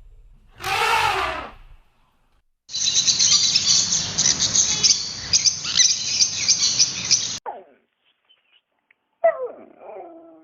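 A short pitched animal cry about a second in, then several seconds of dense, busy bird chirping that cuts off suddenly. A brief gliding whine follows near the end.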